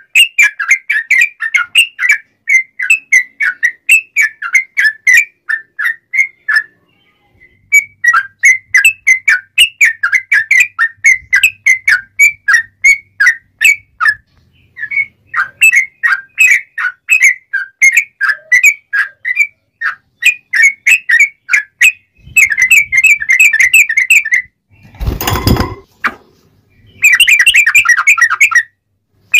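Yellow-vented bulbul (trucuk) singing in long runs of quick, sharp, clear notes, broken by short pauses and turning into faster rapid trills near the end. About 25 s in, a brief burst of noise cuts in.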